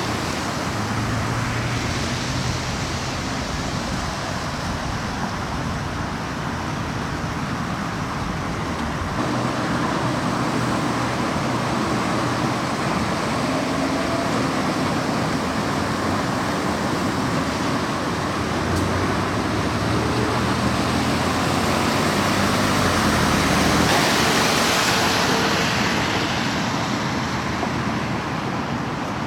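Steady rushing noise of heavy rain and running water, with a low vehicle hum underneath. The sound shifts abruptly about nine seconds in and again near the end.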